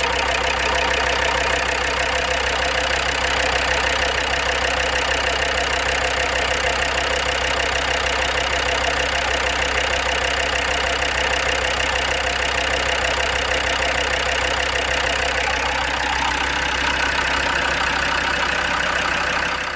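Land Rover Defender Td5 five-cylinder turbo-diesel idling steadily with its ticking and tapping. The owner has not been able to trace the noise: oil pressure and the hydraulic lifters check out, and he wonders whether it comes from the injectors.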